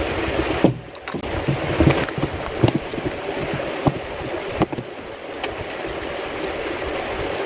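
Water running steadily, with a few short splashes and knocks.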